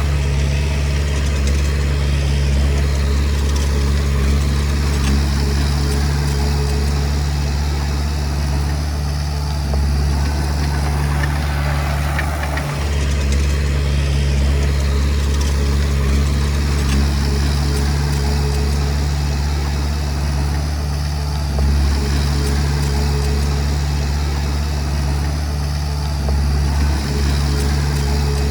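Diesel engine of a Komatsu D20P bulldozer running steadily at a constant pitch, with a single low knock about halfway.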